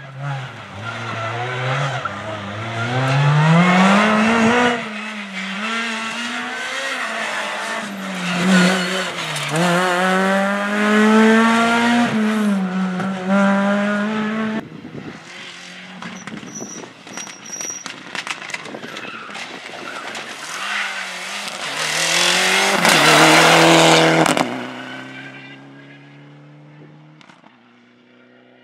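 Rally car engine at full stage pace, revving hard and climbing in pitch, then dropping sharply at gear changes and lifts, over and over. A louder, noisier burst comes about two-thirds through, after which the sound falls away to a quieter, steady engine note.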